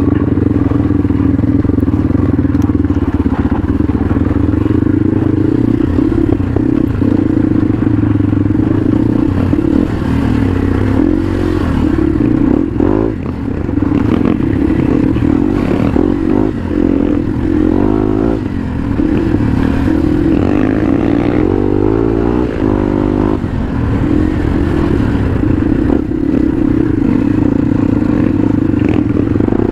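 Motorcycle engine running steadily under the rider, its pitch rising and falling for a few seconds past the middle as the throttle changes, with rattles and scrapes from the rough downhill track.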